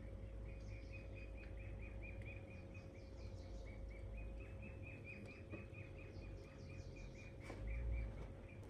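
Outdoor rural ambience dominated by a small creature's rapid, even string of short high chirps, about six a second, over a low rumble that swells briefly near the end, with a faint steady hum underneath.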